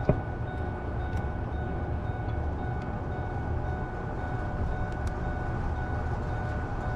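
Steady low mechanical rumble with a constant whine over it, unchanging throughout.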